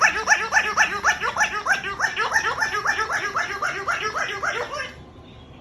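Electronic giggle from a laughing 'giggly dumbbell' bird toy: a fast, even run of recorded laughter, about five syllables a second, that cuts off suddenly near the end.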